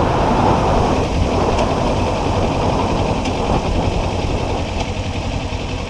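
Kawasaki Ninja 400's parallel-twin engine running under riding wind and road noise on the helmet mic, a steady rumble that eases off a little over the seconds.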